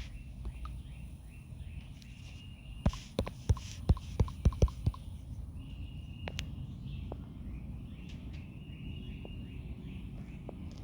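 Quick run of about eight keyboard keystrokes in two seconds, then a single click a second and a half later, over faint high chirping in the background.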